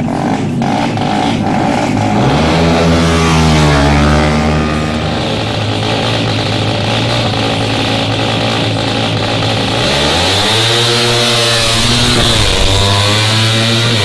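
Motorcycle engine revving. Its pitch climbs a couple of seconds in, holds, then drops back. It climbs and falls again about ten seconds in, and rises once more near the end.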